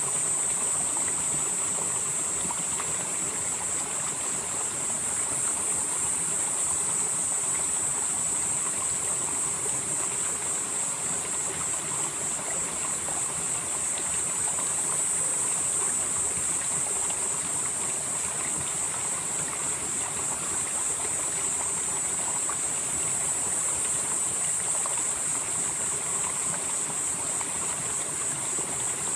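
Valley stream flowing steadily over rocks. Over it runs a high hiss that grows louder and softer again roughly every nine seconds.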